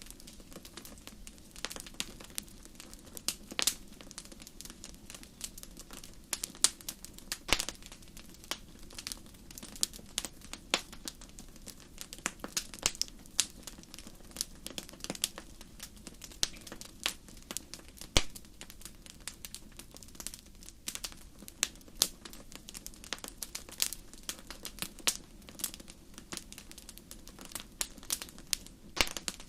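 Wood fire burning in a fireplace, crackling and popping with many sharp irregular snaps over a low steady hiss.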